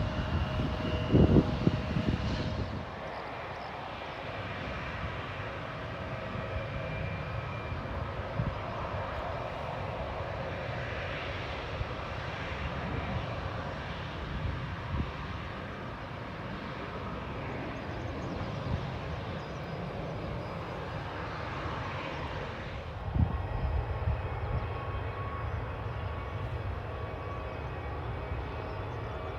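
Aircraft engines droning steadily, with a few faint held tones over the noise. Louder low rumbling comes at the start and again from about two-thirds of the way in.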